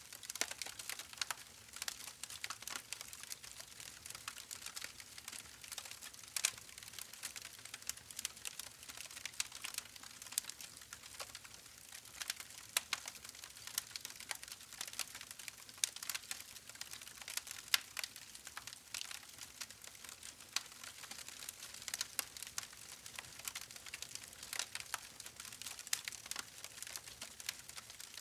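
Wood fire in a fireplace crackling steadily, with dense, irregular sharp pops and snaps over a soft hiss.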